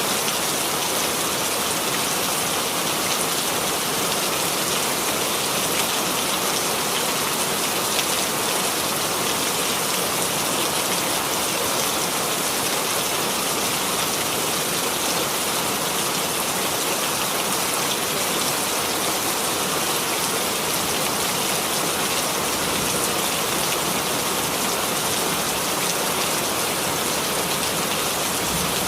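Steady rainfall, a dense even patter of raindrops on a surface with no thunder.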